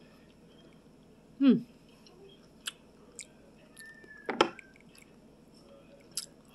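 Close-miked chewing and mouth sounds of a person eating fried rice from a spoon, with a short hummed sound falling in pitch about one and a half seconds in and another brief vocal sound near the middle. Scattered light clicks run between them.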